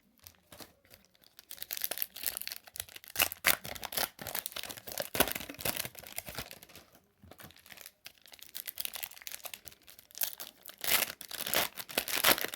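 Crinkling and tearing of a trading-card pack wrapper being handled and pulled open, in irregular crackling bursts with a short pause about seven seconds in.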